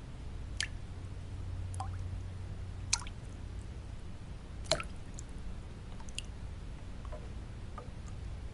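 Water drops falling irregularly, roughly one a second, each a short plink that rises in pitch, over a steady low white noise.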